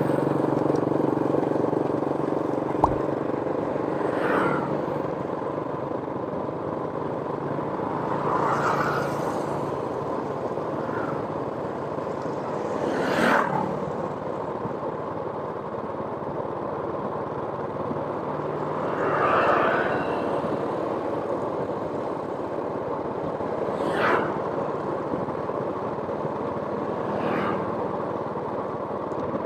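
Steady outdoor traffic noise, with a vehicle passing about every four to six seconds, each one rising and fading within a second or two. One sharp click about three seconds in.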